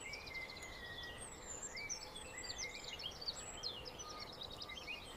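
Small songbirds chirping, with many short whistled chirps overlapping, over a faint steady background hiss.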